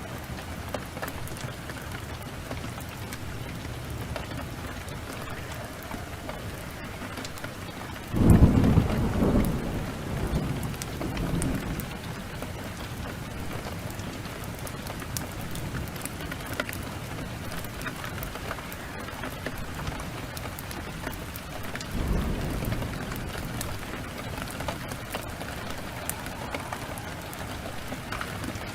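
Heavy rain pouring steadily, with scattered sharp crackles from a wood fire. A loud clap of thunder breaks in suddenly about eight seconds in and rumbles away over several seconds, and a fainter roll of thunder comes about two-thirds of the way through.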